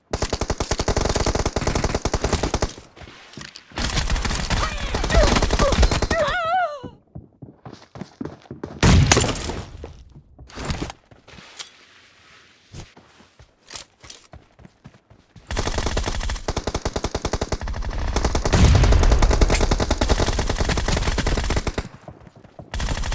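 Automatic gunfire in a first-person shooter video game: long bursts of rapid shots, a stretch of scattered single shots in the middle, then another long burst near the end.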